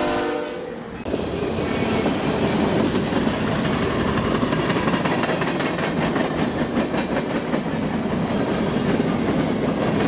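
BNSF freight train passing close: a horn blast cuts off about half a second in, then the steady rumble and clickety-clack of railcar wheels running over the rail joints.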